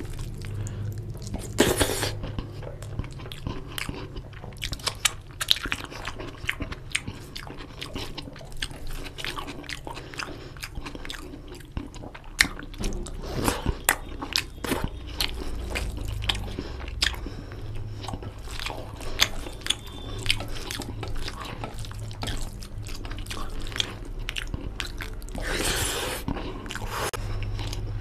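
Close-miked chewing and biting of a mouthful of fried rice and chicken curry eaten by hand, with many short wet smacks and clicks from the mouth at an uneven pace.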